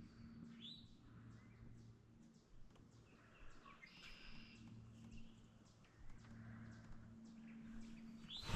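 Faint bird chirps, a few short rising calls, over quiet outdoor ambience with a low hum that comes and goes. A brief sharp knock right at the end.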